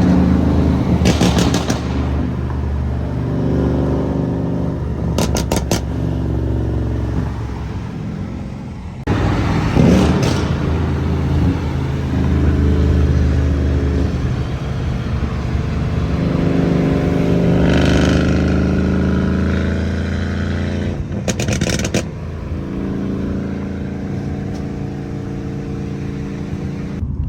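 Mercedes-AMG C63 engine and exhaust under way, revving up and easing off in long rising and falling sweeps as the car accelerates and shifts, with a few short sharp cracks.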